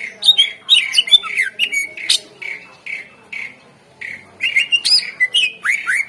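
Greater green leafbird (cucak ijo) singing a loud, fast run of sharp whistled chirps mixed with harsh rasping notes, thickest in the first second and again about five seconds in.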